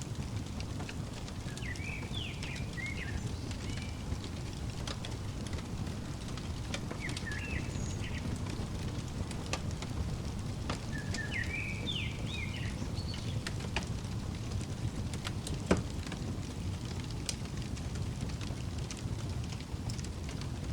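Fireplace crackling over a steady low rumble, with scattered pops and one louder crack about three quarters of the way through. A small bird chirps three short phrases over it.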